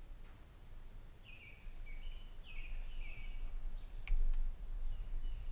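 A bird chirping repeatedly in short, falling high notes, roughly two a second, over a low rumble. A single sharp click comes about four seconds in.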